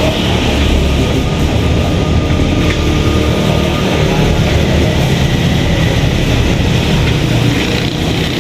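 Steady, loud low rumble of vehicle noise, without distinct events.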